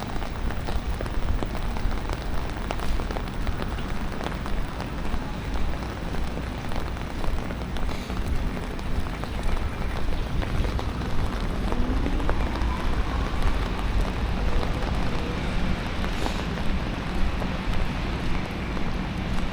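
Steady rain falling, with a dense patter of drops over a low city rumble. About two-thirds of the way through, a brief rising whine sounds.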